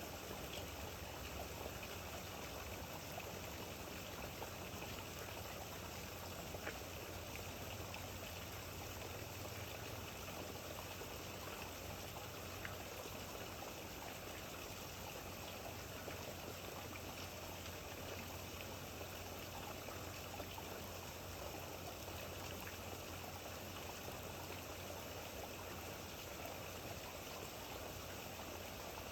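Steady rain with running, trickling water, an even hiss with a few faint drop ticks scattered through it.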